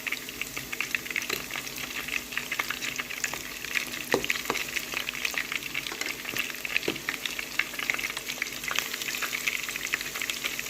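Breadcrumb-coated chicken pieces frying in hot oil: a steady sizzle with dense crackling, and a few louder sharp pops about four and seven seconds in.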